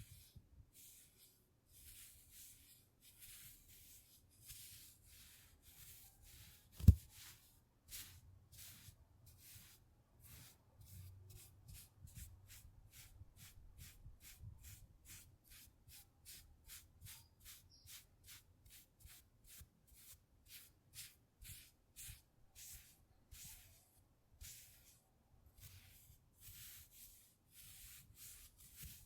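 Rapid short scratching strokes on a surface, about two a second, speeding to three or four a second in the middle. One sharp low thump about seven seconds in, the loudest sound.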